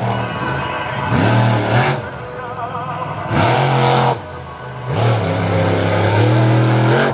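Monster truck engine revving hard in three loud bursts, its pitch climbing into each burst and dropping back between them.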